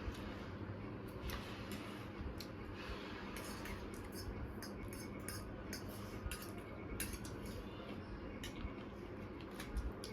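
Spoons and forks clinking and scraping against plates during eating, in many short irregular clicks, over a steady low hum.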